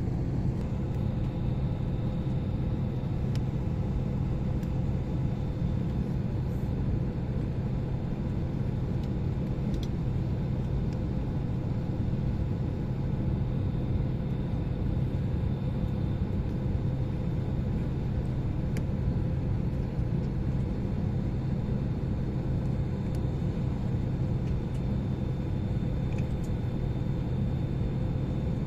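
Steady drone inside an airliner cabin held on the ground, a constant low hum with a faint higher whine, with a few faint clicks.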